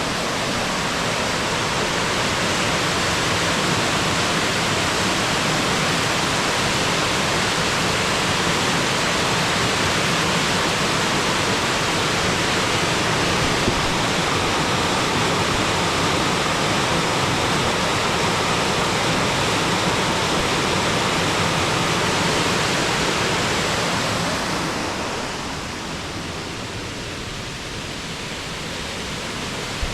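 Waterfall pouring with a steady rushing noise; it drops in level and loses some of its hiss near the end.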